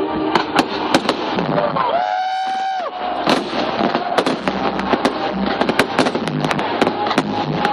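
Fireworks bursting in a rapid series of sharp bangs and crackles. About two seconds in, a steady pitched tone like a horn or whistle sounds for about a second over them.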